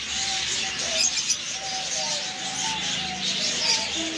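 Many caged pet birds chirping and twittering at once, an unbroken chatter of high calls overlapping one another.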